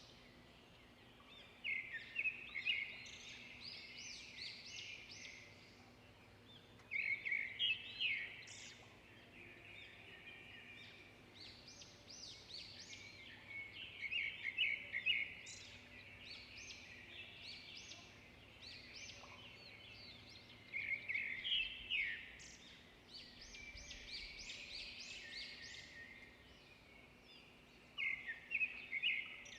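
Songbirds singing: bursts of rapid, high chirping notes every few seconds, with quieter twittering in between.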